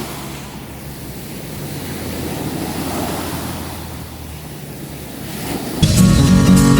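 Sea waves washing in, with wind on the microphone; one wave swells up about halfway through. Near the end, strummed acoustic guitar music comes in.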